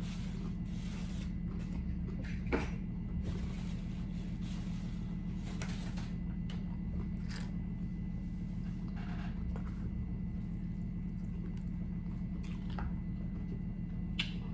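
A person chewing a mouthful of food: soft, wet mouth sounds with a few short clicks, over a steady low hum.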